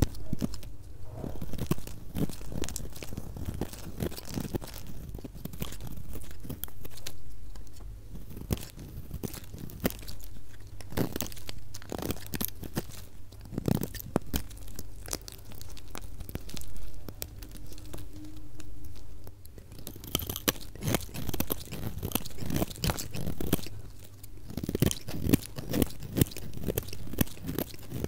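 A knife cutting through soap, with a dense run of quick crunching crackles that grows crisper in the last third.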